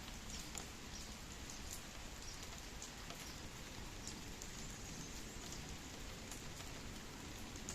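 Steady light rain falling, with scattered individual drops ticking on a surface.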